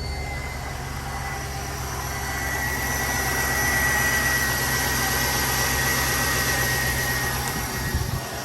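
Chevrolet 5.3 L Vortec V8 idling steadily under the hood of a 2005 Suburban, with a thin steady high whine over the engine note. The intermittent pulley-bearing noise the owner is chasing does not show up.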